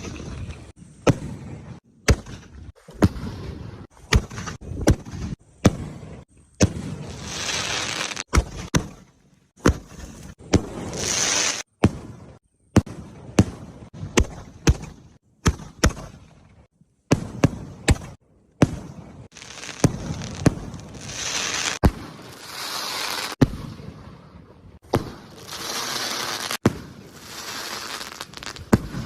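Firecrackers going off: a long irregular run of sharp bangs, sometimes several close together, with stretches of hissing and crackling between them.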